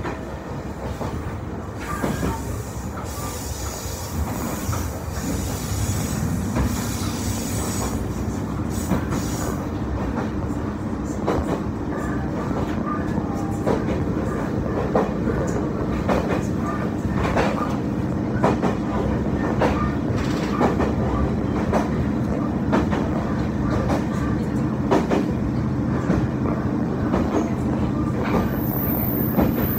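Electric train running sound heard inside the carriage: a continuous rumble of wheels on rails, with sharp clacks from the track about once a second. A steady low hum comes in about six seconds in, and the run grows a little louder.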